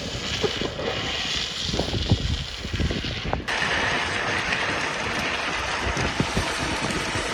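Wind buffeting the microphone in irregular low gusts over a steady rushing noise, with an abrupt change about halfway through where the sound switches to a similar but different rushing noise.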